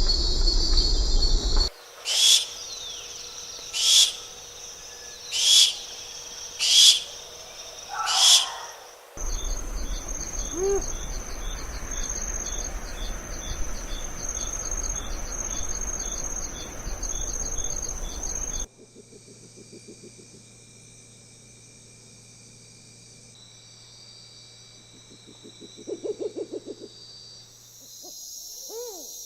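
Birds calling in a series of separate field recordings: first five loud, high calls about two seconds apart, then a fast, even ticking chorus of insects, then a short low pulsed call near the end.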